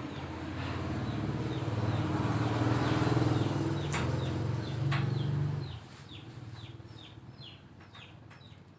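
A low motor hum that builds and then cuts off about six seconds in, with short falling chirps repeating about twice a second throughout.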